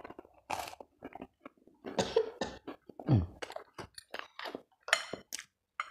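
Close-up eating sounds: chewing of chicken noodles with many short wet mouth clicks and smacks, and a brief throaty vocal sound falling in pitch about three seconds in.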